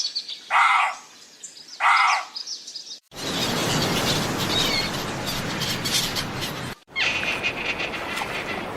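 Two loud, harsh calls about a second apart. Then, after an abrupt cut, small birds chirping over a steady outdoor hiss, with another abrupt cut shortly before the end.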